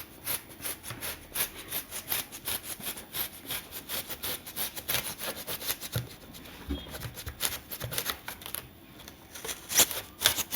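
Large scissors cutting through a thermocol (polystyrene foam) sheet: a quick run of short scraping, rubbing snips, several a second, with a couple of louder strokes near the end.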